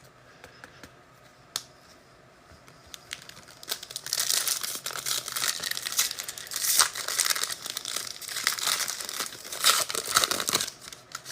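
Foil wrapper of a trading card pack being torn open and crinkled, a crackling rustle that starts about four seconds in after a few light clicks and stops shortly before the end.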